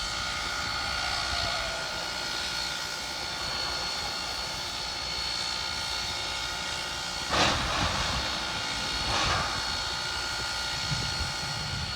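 Steam locomotive standing with a steady hiss and hum, with two short bursts of hissing a little under two seconds apart, a little past halfway.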